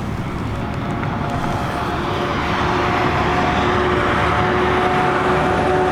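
A motor vehicle running close by: a steady rushing rumble with a constant whine, growing louder over the first few seconds.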